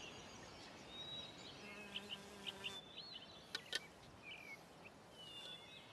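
Faint garden birdsong: short chirps and whistles from several small birds, with two sharp clicks about three and a half seconds in.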